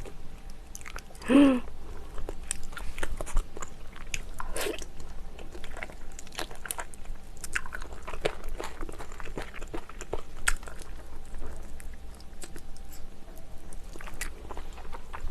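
Close-miked chewing of seafood stew and rice: wet mouth clicks and smacks throughout, with a brief hummed vocal sound about a second and a half in.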